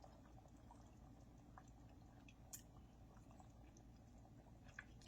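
Near silence with soft mouth sounds of eating soup: faint chewing and a few small clicks, the clearest about two and a half seconds in and near the end.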